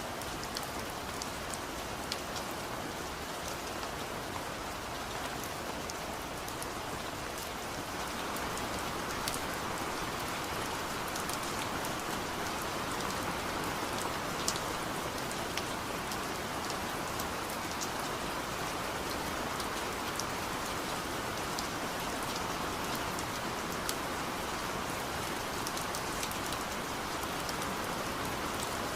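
Steady rain falling, an even hiss with many separate drops ticking over it; it grows slightly heavier about a quarter of the way in.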